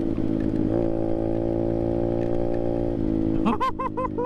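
Apollo RFZ 125cc single-cylinder pit bike engine running steadily under way at a held throttle, its pitch shifting slightly about a second in and again near the end.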